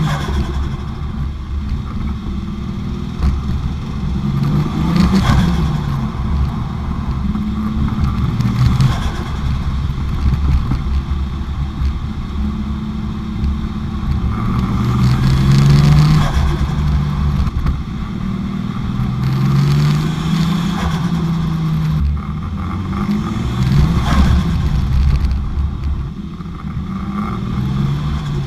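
Nissan Silvia S15's 1JZ-GTE VVTi turbocharged 2.5-litre straight-six revving up and falling back again and again, as in hard driving. Short bursts of noise break in several times between the revs.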